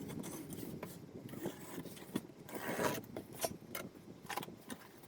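Package being opened by hand: the wrapping rustles and scrapes, with scattered sharp clicks and crackles.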